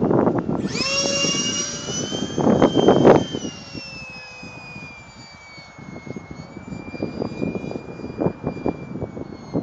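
Electric ducted-fan jet of a Parkzone Habu passing: a high whine comes in sharply about a second in and is loud for a couple of seconds, then drops in pitch and fades, dipping again near the end. Gusts of wind rumble on the microphone throughout.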